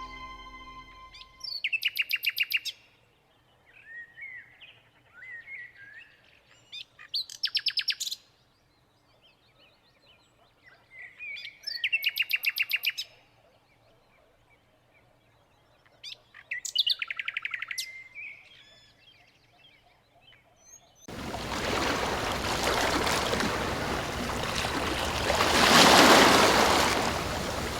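A songbird sings a fast trill of rapidly repeated notes about every five seconds, with softer chirps in between. About two-thirds of the way in a steady rush of running water starts and swells louder near the end.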